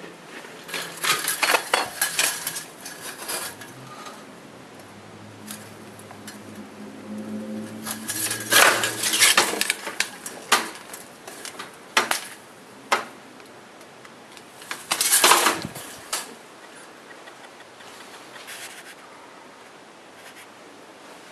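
Several bursts of clattering knocks and clinks, with single sharp knocks between them.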